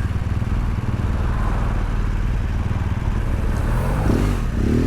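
BMW GS motorcycle's boxer-twin engine running steadily, recorded on the moving bike with wind rush over the microphone.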